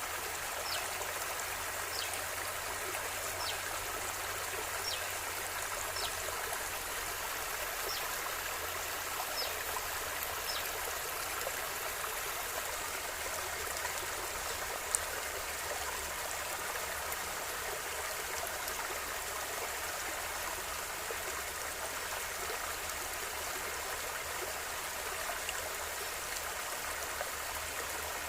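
River water flowing steadily, a continuous rushing hiss with no let-up. Faint short high chirps repeat about once a second during the first ten seconds or so, and a single sharp click comes about halfway through.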